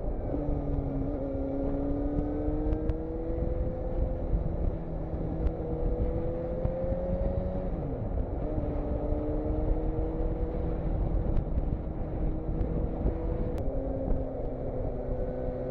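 Motorcycle engine running under way, its pitch climbing slowly, dropping sharply about eight seconds in and climbing again. A heavy low wind rumble on the camera microphone runs underneath.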